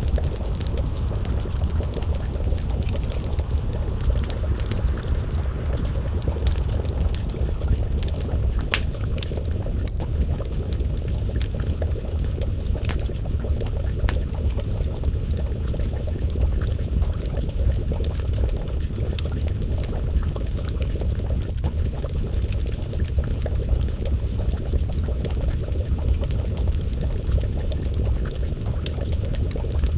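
A pot of stew simmering over a wood fire, with a steady low bubbling, and the fire crackling with frequent sharp pops.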